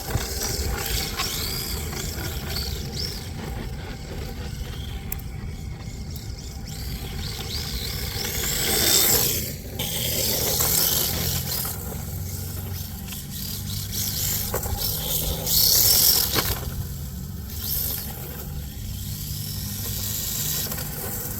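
Electric RC drift car (D-Like LP86 chassis) being driven: its motor whines up and down in pitch as the throttle is worked, and the tyres scrape as they slide across the pavement. There are two louder surges, about nine and sixteen seconds in.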